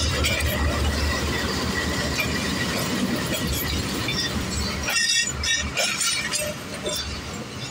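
Arriving passenger train rolling past close by. A diesel locomotive's low engine rumble fades about five seconds in as the coaches follow, their wheels clanking and clattering over the rail joints, with a thin steady high squeal running underneath.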